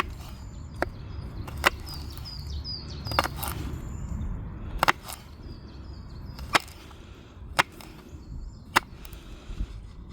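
Knife chopping on a cutting board: about eight sharp, irregularly spaced strikes. Birds chirp faintly in the background.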